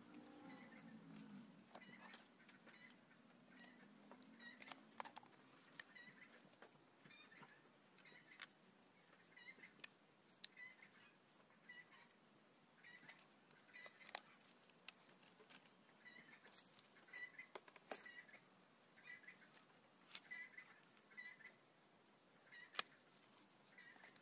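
Near silence: faint outdoor ambience with a small bird repeating a short chirp over and over, and scattered light clicks and ticks of bonsai wire being bent and handled with pliers.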